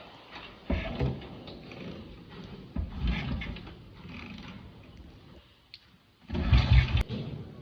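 A BSA motorcycle being kickstarted after standing unused for a while. The engine fires in a few short bursts of about a second and does not keep running. A louder burst comes near the end.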